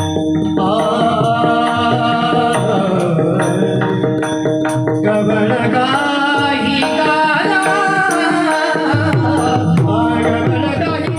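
Devotional kirtan music: a voice singing a chant over a steady held drone, with mridang drum strokes throughout.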